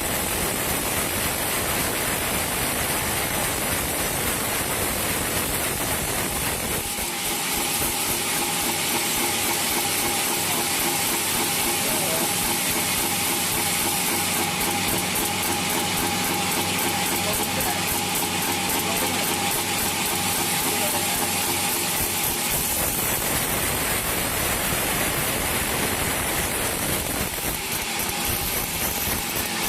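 Sawmill machinery running steadily: a loud, even rush of noise with a hum underneath. About a quarter of the way in the sound turns smoother, with a steady held tone, then goes back to the rougher noise near the end.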